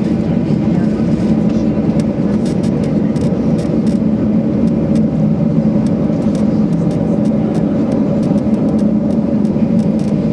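Steady hum inside the cabin of a Boeing 737-800 with its CFM56 jet engines running at idle after landing, with faint scattered clicks over it.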